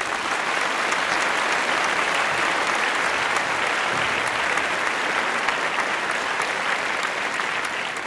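Crowd applause, a dense steady clapping that begins to die away near the end.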